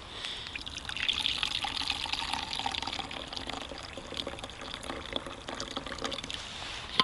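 Tea being poured into a cup, a steady splashing pour lasting several seconds.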